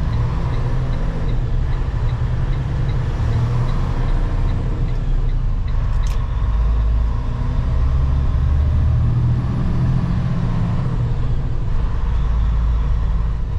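Semi truck's engine and road noise heard from inside the cab of a loaded tanker truck: a steady low rumble. A light regular ticking runs through the first five seconds or so, and there is one sharp click about six seconds in.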